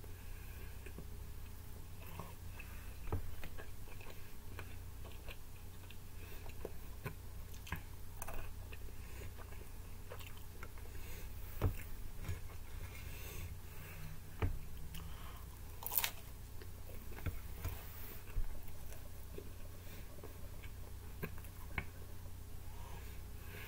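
A person chewing and biting reheated pizza with bacon close to the microphone: wet chewing with scattered crisp crunches and clicks, the loudest about 16 seconds in, over a steady low hum.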